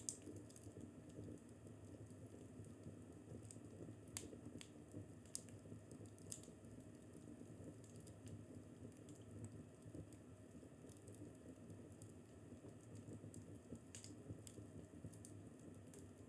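Fireplace crackling faintly: a steady low rumble of burning wood with scattered sharp pops and snaps, a few louder ones around four to six seconds in and again near fourteen seconds.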